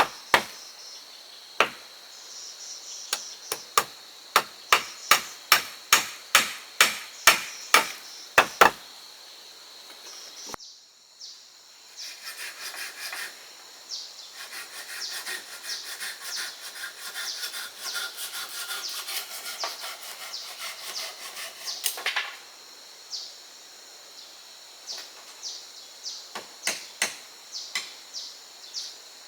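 Hammer blows on wood, about two a second, followed by a long stretch of rough scraping on wood and then a few scattered light taps. Insects keep up a steady high-pitched buzz throughout.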